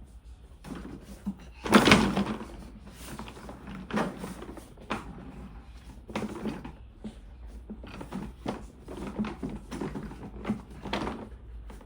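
Toy cars being handled: irregular small knocks and clacks of hard toys, with a loud clatter about two seconds in.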